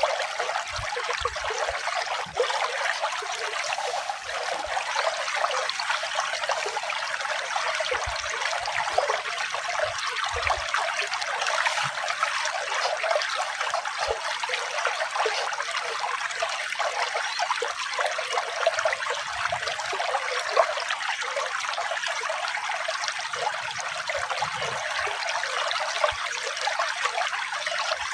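Running water trickling and splashing steadily, an even rushing hiss that holds without change.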